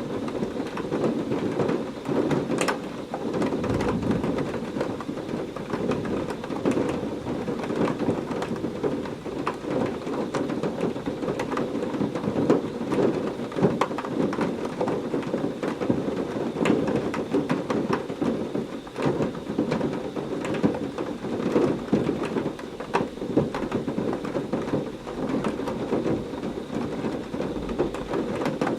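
Heavy rain falling steadily with a deep rumble of thunder, scattered with many sharp drop hits.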